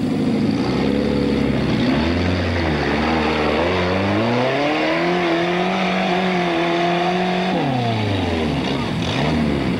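Trials car engine pulling at low revs, then revving up over about a second and a half, held high for a couple of seconds, and dropping back near the end.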